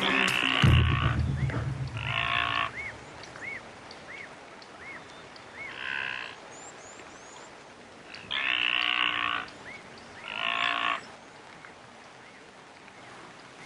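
Animal calls: five short, harsh calls of about a second each, spaced a few seconds apart, with faint short chirps repeating between them.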